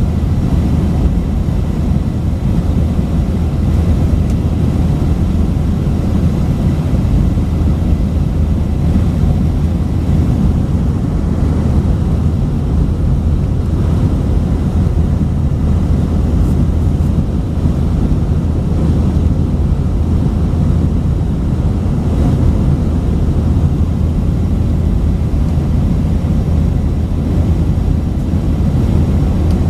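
Steady low drone of an Airbus A319-132's IAE V2500 turbofan engines and airflow, heard inside the passenger cabin.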